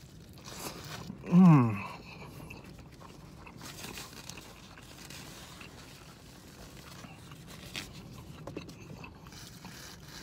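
A person biting and chewing a slice of BBQ chicken pizza, with soft scattered mouth clicks. About a second and a half in, one short loud voiced sound falls in pitch.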